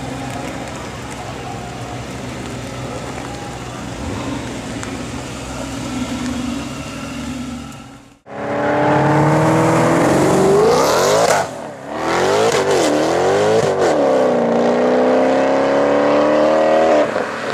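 A BMW i8 rolling by slowly, its engine running low under a steady background. After a sudden cut about eight seconds in, a car engine accelerates hard and loud through the gears, its pitch climbing, breaking briefly at each shift and climbing again, then holding a long steady pull until it cuts off near the end.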